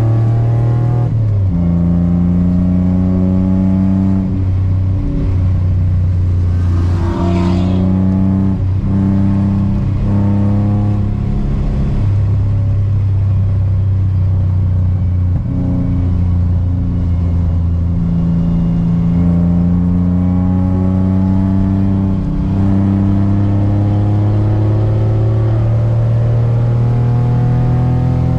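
Car engine heard from inside the cabin, driven hard on track. Its note climbs slowly through long pulls and drops off and picks up again several times as the car accelerates toward 90 mph.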